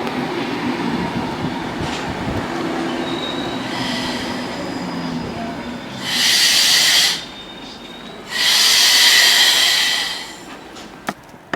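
A train running through a station with a steady rumble, then two loud high-pitched wheel or brake squeals, one about a second long and one about two seconds long.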